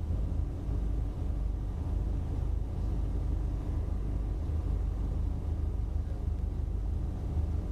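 Toyota MR2's engine idling steadily with a low, even rumble.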